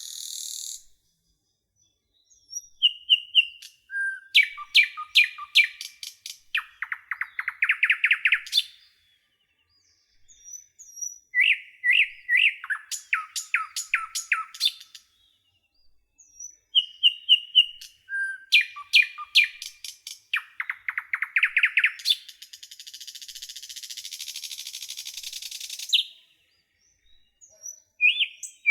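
Songbirds singing in short repeated phrases of chirps and fast trills, with brief silent gaps between phrases. About three-quarters of the way through, a steady high hiss lasts about four seconds.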